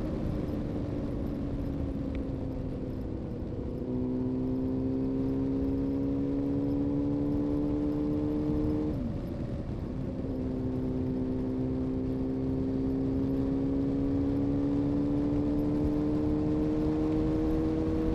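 2000 Honda CBR-929RR Fireblade's inline-four through an Erion full racing exhaust, ridden under light acceleration. The note gets louder about four seconds in, then climbs slowly in pitch, drops sharply at an upshift about nine seconds in, and climbs again, over a rush of wind and road noise.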